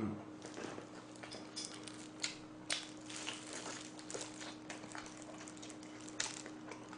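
A person chewing a mouthful of food: irregular soft wet clicks and smacks, over a faint steady hum.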